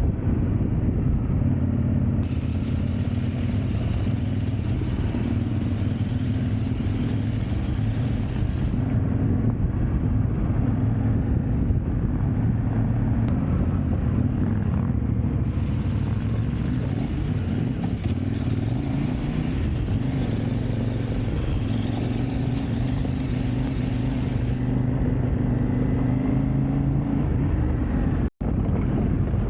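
Adventure motorcycle engine running under way on a dirt trail, its note holding fairly steady with mild rises and falls. The sound cuts out for an instant near the end.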